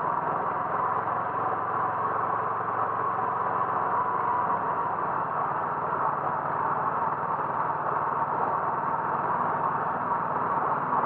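A vehicle's engine running steadily, with constant road noise.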